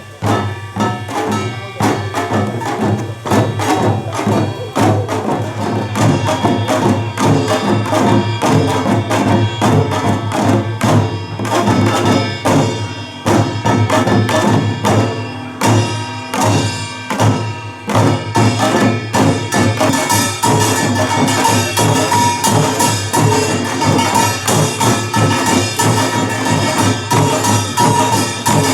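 Korean pungmul percussion music: a steady, driving run of drum and gong strikes, growing busier and brighter after about twenty seconds.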